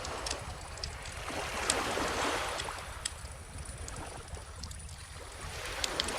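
Small ocean waves washing ashore, one swelling about two seconds in and another near the end, over the scattered crackles and pops of a wood bonfire and a steady low rumble.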